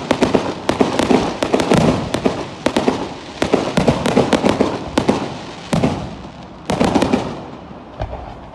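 Fireworks display going off: rapid bangs and crackling bursts one after another, easing briefly about six seconds in and fading near the end.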